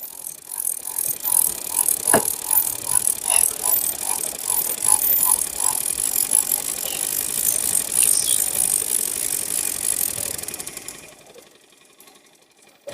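Fishing reel being cranked, a fast steady ratcheting click that stops about eleven seconds in.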